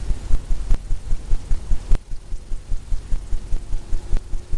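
Paint brush tapping against a stretched canvas: a quick, even run of low dull thumps, several a second, with an occasional sharper click.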